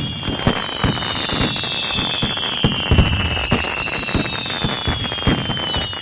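Fireworks crackling with many sharp pops, over a high whistle that slowly falls in pitch.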